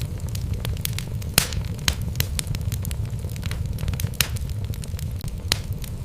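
Wood fire burning in a fireplace: a steady low rumble of flames with irregular crackles and sharp pops from the burning logs, the loudest pop about a second and a half in.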